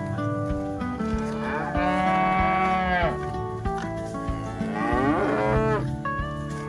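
A cow mooing twice: two long moos, the second falling in pitch at its end, over background acoustic guitar music.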